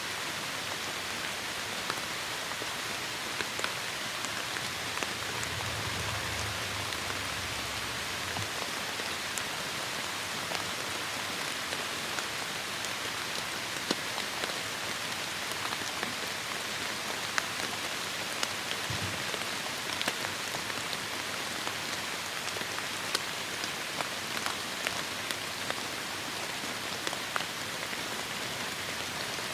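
Heavy rain falling steadily: a dense hiss with many sharp drop hits on surfaces. A low rumble comes in for a few seconds about five seconds in.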